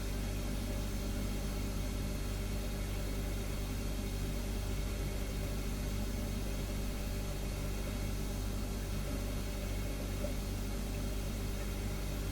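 Refrigerator humming steadily: a low, even hum with a few fainter steady tones above it over a light hiss.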